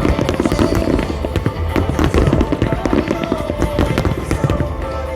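Rapid fireworks bursts and crackling over loud music, the bangs coming thick and fast, then thinning out about four and a half seconds in.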